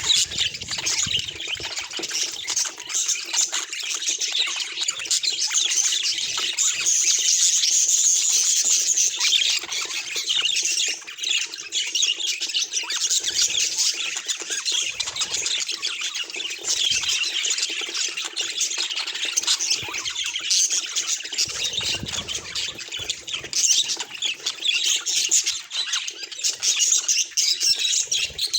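Budgerigars chattering and warbling in a continuous stream of rapid high chirps and squawks.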